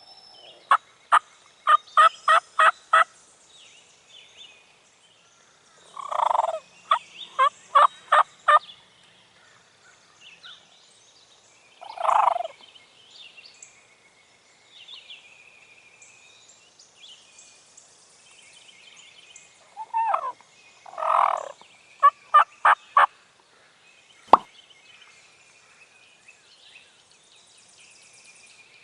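Wild turkey gobbler gobbling three times, about six seconds apart, with runs of short, sharp turkey notes around the gobbles. Small birds sing faintly behind, and there is one sharp click near the end.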